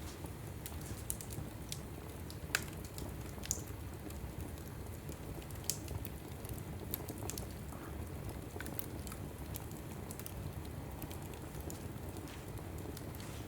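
Wood logs burning in a fireplace: irregular sharp crackles and pops over a steady low rumble, with a few louder pops in the first half.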